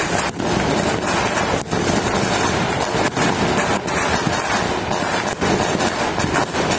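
Fireworks going off all over a city at once: a dense, unbroken din of many overlapping bangs and crackles, with no single burst standing out.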